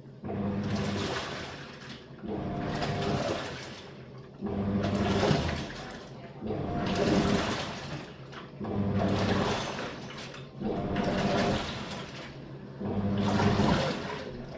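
Living & Co 5.5 kg top-load washing machine agitating in its wash cycle. The wash plate's motor hums and water sloshes in bursts of about a second and a half as the plate turns back and forth, repeating about every two seconds.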